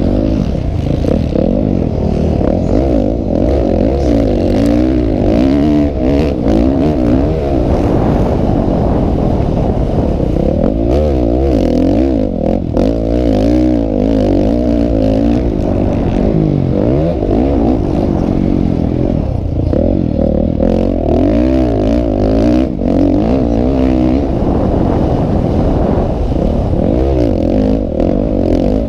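Several motocross bikes' engines revving up and down together during a race, their pitches constantly rising and falling and overlapping.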